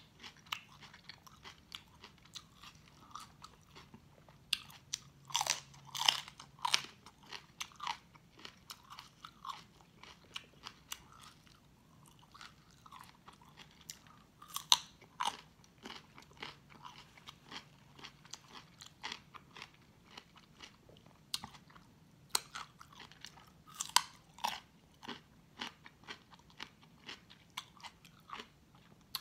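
Close-miked chewing and crunching of raw vegetables, in a run of short crisp crackles, with a sharp bite into a piece of cucumber about halfway through.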